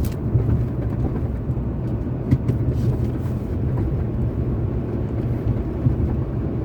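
A car driving along a road: steady low rumble of tyre and engine noise.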